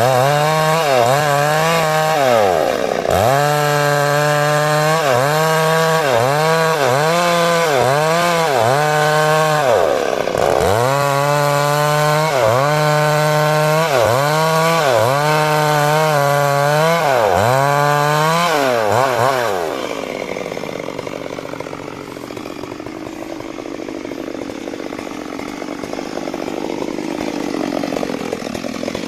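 Stihl MS 382 two-stroke chainsaw ripping through a large rain tree log, its engine speed dipping and recovering about once a second as the chain bites under load. About two-thirds of the way in, the engine note fades to a quieter, rougher sound.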